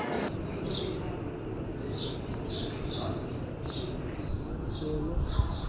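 A small bird chirping, a string of short high chirps about two a second, over the low murmur of a crowd in a large hall. There are a few low bumps near the end.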